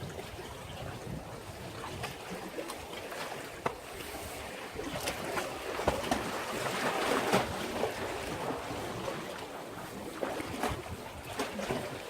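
Sea waves washing against a breakwater, with small splashes, swelling louder midway through.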